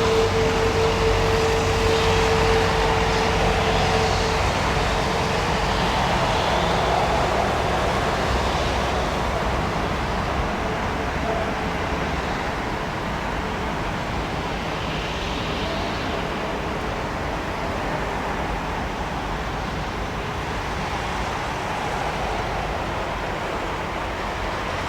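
Jet engine noise from a Boeing 787-9 with Rolls-Royce Trent 1000 engines, a steady rush that slowly grows quieter. A steady hum tone sits in it for the first four seconds or so.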